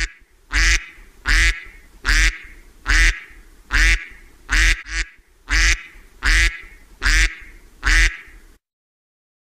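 A duck quacking in a steady, evenly paced series: about ten quacks a little under a second apart, then a sudden stop near the end.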